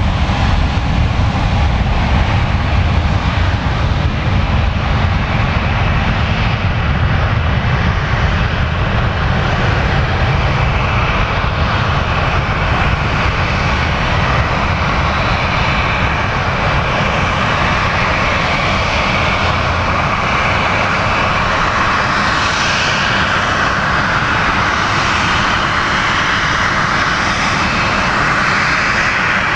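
Boeing 777-200 jetliner's twin turbofan engines running loud and steady, a deep rumble at first that shifts toward a brighter hiss over the second half.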